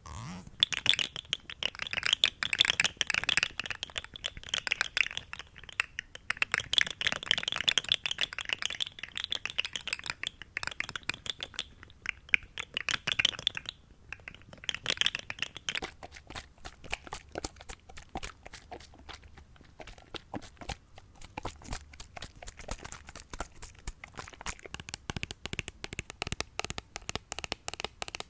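Close-miked ASMR trigger sounds: dense, rapid crackling and clicking, with the texture changing about sixteen seconds in.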